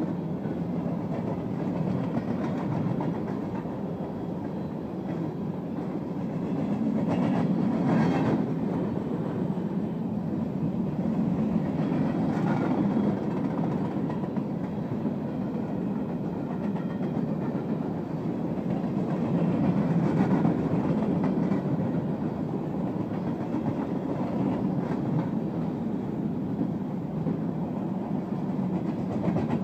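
Freight train's covered grain hopper cars rolling past: a continuous rumble of steel wheels on the rails that swells a little at times.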